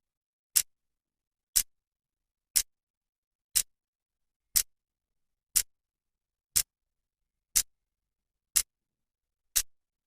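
Clock second hand ticking once a second, each tick a short, sharp, crisp click with silence in between.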